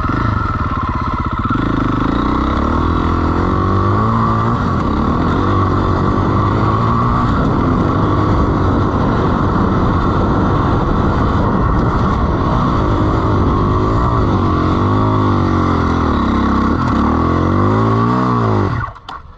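Dirt bike engine revving up and down under load as it is ridden through sand, its pitch rising and falling with the throttle. Near the end the engine note falls and the sound drops away sharply.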